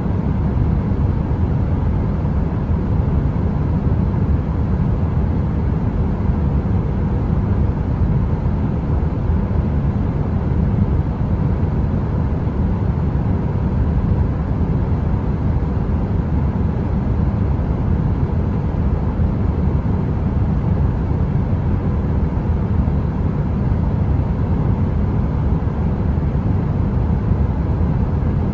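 Heater noise: a steady, low-pitched rushing noise with a faint steady hum in it. It has no crackling and no change.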